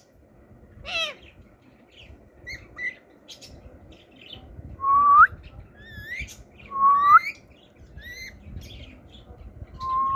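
Ring-necked parakeet calling: a harsh squawk about a second in, scattered short chirps, then three loud whistled calls that hold a note and sweep upward, about two seconds apart, in the second half.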